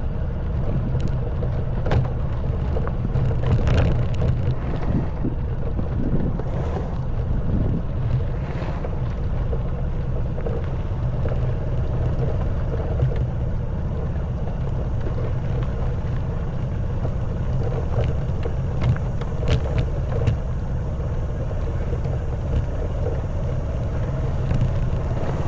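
Honda Wave 110cc single-cylinder four-stroke engine running steadily while riding, with scattered knocks and rattles as the bike jolts over a stony track.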